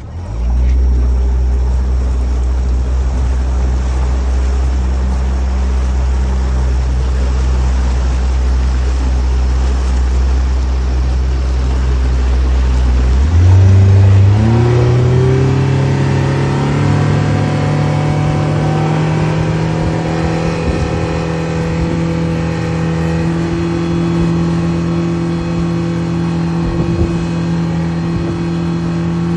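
A loud motor hum that starts suddenly and runs at a steady low pitch. About halfway through it climbs in pitch in quick steps, then holds steady at the higher speed.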